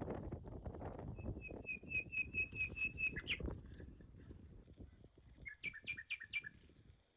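A wild bird calling: a quick run of about ten short, evenly repeated high notes, then a shorter run of about five notes near the end. Low rustling and crackling sounds underneath in the first half.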